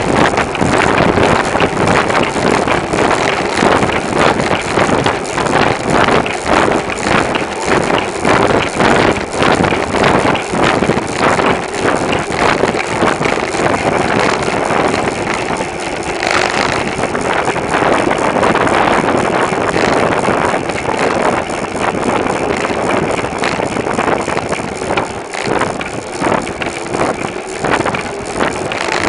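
Wind buffeting the microphone of a bicycle-mounted camera while riding, mixed with the steady road and rattle noise of the bike rolling along.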